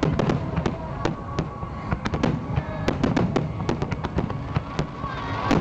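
Fireworks bursting in rapid succession: a dense run of sharp bangs and cracks, several a second, over a continuous low rumble, with music playing underneath.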